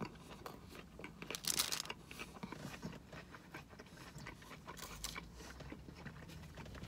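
Close-miked chewing of a mouthful of breaded chicken sandwich, with soft wet mouth sounds and a few short crackly noises, the loudest about one and a half seconds in.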